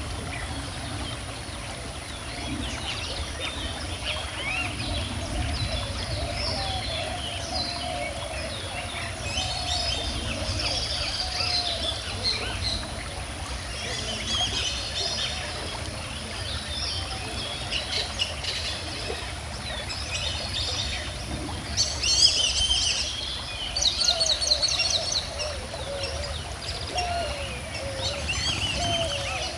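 Several birds singing and chirping, their calls overlapping, over the steady low rush of a calm river. The song is loudest in two short bursts about two-thirds of the way through.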